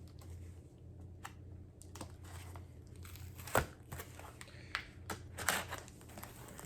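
Cardboard packaging of a vinyl record shipment being torn open and handled: scattered crinkling and tearing, with a sharper snap about three and a half seconds in.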